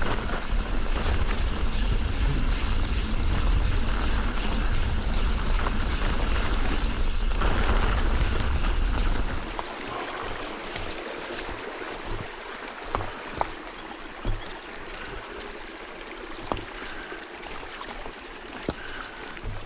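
Wind rumbling on the microphone and tyres on rough dirt as a mountain bike descends, stopping suddenly about nine and a half seconds in; then a creek's running water rushes steadily, with a few light clicks.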